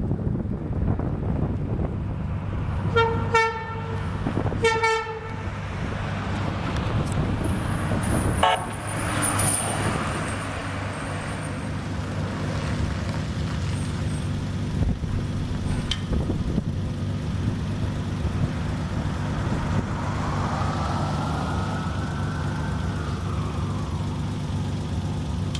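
Fire engine's diesel running steadily, with two blasts of an air horn about three seconds in and again a second and a half later, and a short third toot a few seconds after that. Near the end a siren sweeps up and back down.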